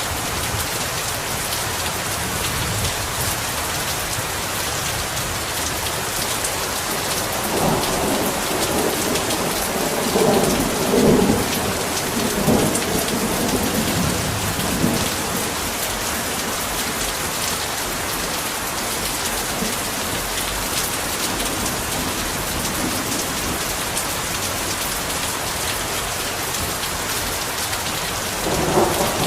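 Heavy rain falling steadily, with a rolling rumble of thunder from about 8 to 15 seconds in and another starting right at the end.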